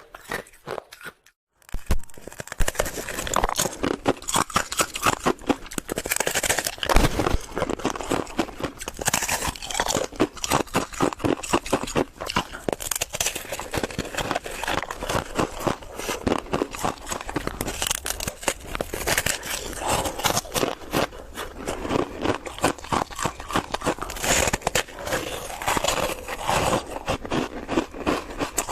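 A person biting and chewing ice close to the microphone: a dense run of loud, sharp crunches that starts after a brief quiet gap at the beginning.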